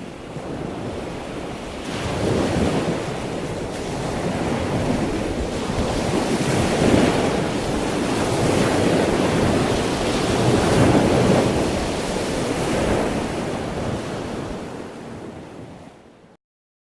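A rushing noise that fades in, swells and ebbs every few seconds, then fades out and stops just before the end.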